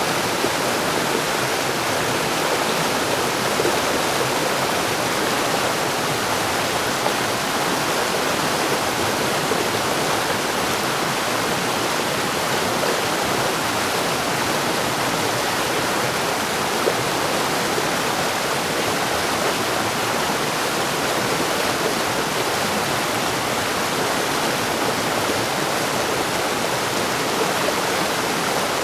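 Mountain stream rushing over rocks: a steady, dense wash of water noise that doesn't change.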